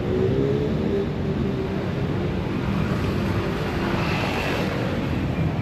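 Busy street traffic: the steady noise of motor vehicles running close by, with one engine's note standing out in the first second or so.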